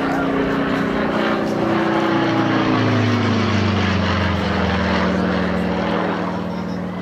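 Propeller aircraft flying past, its engine drone sliding steadily down in pitch over several seconds.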